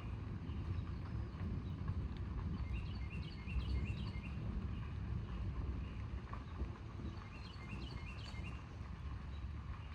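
A songbird singing a short phrase of four or five quick high chirps, twice, about three seconds in and again near eight seconds, over a steady low rumble of outdoor storm ambience.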